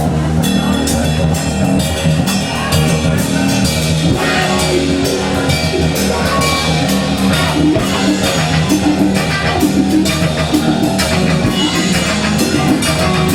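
Live rock band playing a song, with electric guitars, bass and a drum kit.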